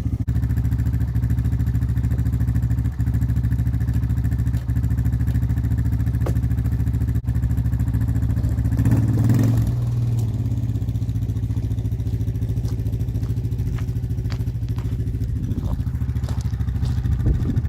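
Small vehicle engine running steadily while it tows a roped-up snowmobile, swelling briefly about halfway through.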